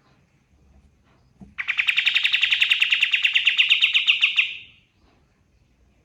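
A kapas tembak songbird singing one fast, even trill of about ten notes a second, lasting about three seconds.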